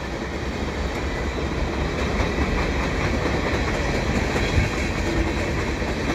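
Freight train passing: three Canadian Pacific GP20ECO rebuilt diesel locomotives with Caterpillar engines, followed by tank cars rolling over the rails with a steady low rumble. One heavier thump about four and a half seconds in.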